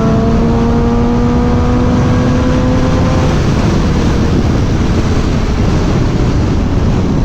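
Suzuki GSX-R 600 inline-four engine running under way, its pitch rising slightly, then fading under a heavy, steady rush of wind noise on the rider's microphone from about three and a half seconds in.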